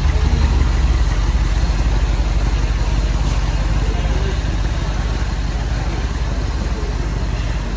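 A car engine idling, a steady low rumble with fast even pulses.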